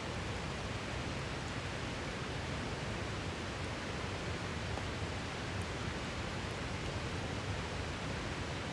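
A river flowing steadily, with a few faint crackles from a wood campfire.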